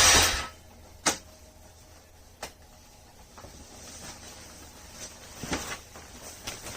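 The ATV's engine sound from a cold-start attempt cuts off about half a second in. It is followed by a sharp click, a smaller click over a second later, and faint knocks and handling noises.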